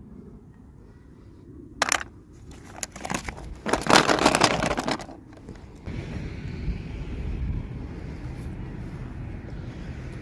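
Toy packaging being handled and opened: a sharp click about two seconds in, then a few seconds of crinkling.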